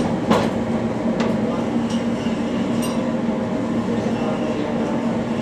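Steady machinery drone with a constant low hum, and a few sharp metallic clinks of tools or parts, the loudest just after the start.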